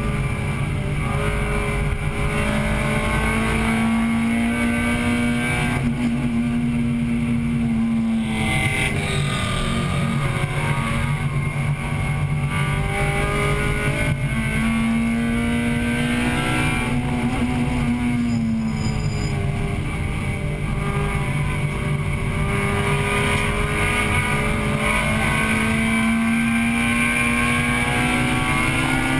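In-car sound of a 1998 Acura Integra Type-R's four-cylinder VTEC engine under hard racing load, its pitch climbing steadily for long stretches and dropping sharply twice, about 8 and 18 seconds in, before climbing again.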